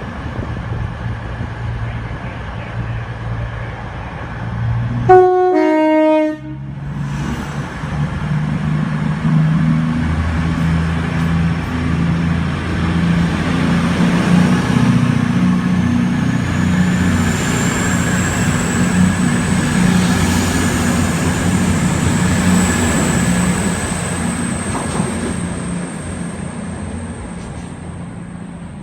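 A train sounds a two-tone horn, a short high note then a lower one, about five seconds in. It then passes with a steady engine drone and track rumble, while a faint high whine slowly rises and then holds.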